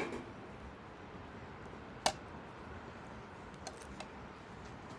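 Low background hiss with one sharp click or knock about two seconds in and two faint ticks later on.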